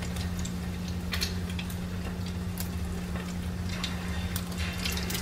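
Egg-coated sandwiches frying in a shallow layer of hot oil: a steady sizzle with scattered pops and crackles, over a low steady hum.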